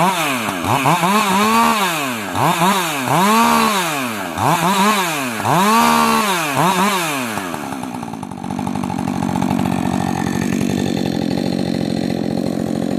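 Rebuilt Husqvarna 562 XP two-stroke chainsaw revved up and down about five times in quick throttle blips, then dropping back to a steady idle about eight seconds in, while its AutoTune is still settling the tune.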